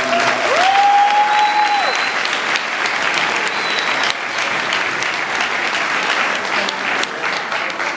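A crowd clapping and applauding, with one long, steady high cheer held over it from about half a second to two seconds in.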